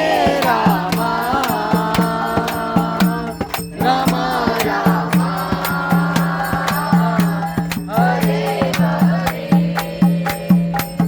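Devotional kirtan: voices singing a chant over a steady low drone, with percussion striking a steady beat a few times a second. The singing breaks off briefly about four seconds in and again near eight seconds, while the beat keeps going.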